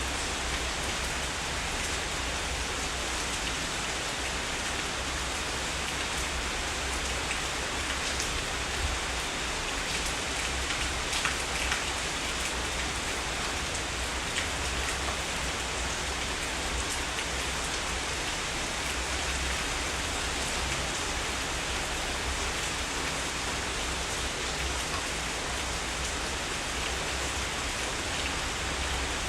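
Heavy rain falling steadily: a dense, even hiss of rain with scattered individual drop hits and a low rumble underneath.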